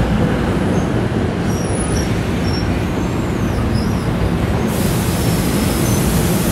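NJ Transit locomotive-hauled passenger train rolling past along the platform, a steady rumble of wheels on rail with faint high-pitched wheel squeals.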